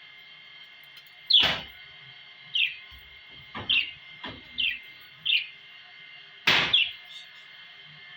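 Budgerigars giving short, falling chirps, about six spread across a few seconds, with several sharp knocks among them.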